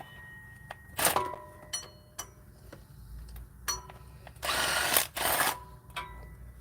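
Metal clinks that ring on briefly, then two short bursts of a Milwaukee cordless power tool about four and a half and five and a half seconds in, backing out bolts to remove the engine fan and fan clutch assembly.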